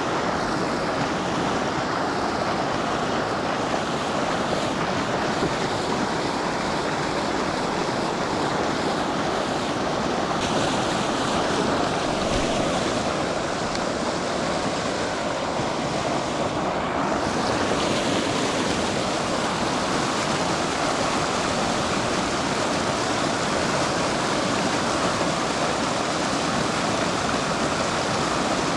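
Steady rushing of fast-flowing river water, a constant even noise with no breaks.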